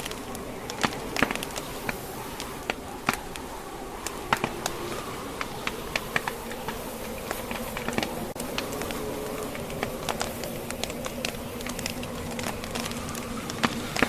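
Wood logs burning in a fireplace, crackling and popping at irregular moments over a steady hiss, with a low, wavering howl of blizzard wind behind.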